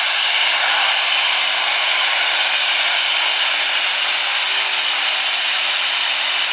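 Super stock pulling tractor's engine running hard at high revs under load during a pull: a loud, steady, hissing whine with no letup.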